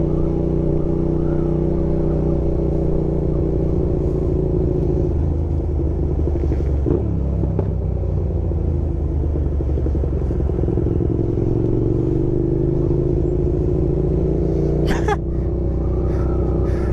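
Motorcycle engine running steadily under way, its pitch drifting slightly with the throttle. A brief sharp sound comes near the end.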